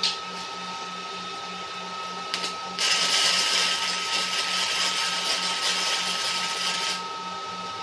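Robotic CO2 arc welding: after a brief spit a little over two seconds in, the welding arc strikes at about three seconds and crackles and hisses steadily for about four seconds, then stops. A steady machine hum with a fixed tone runs underneath.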